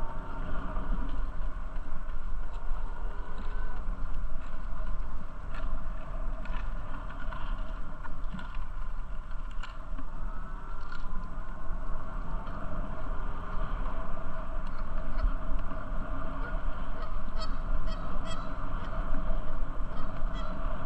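Wind rumbling on the microphone and the steady rolling noise of a bicycle in motion, with honking calls over it throughout and a few short clicks near the end.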